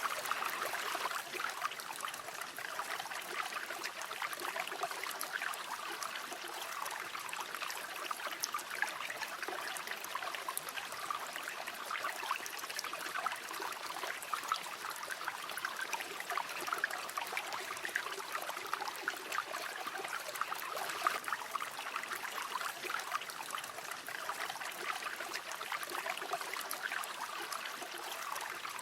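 River water running steadily, a continuous rush with many small splashes and gurgles.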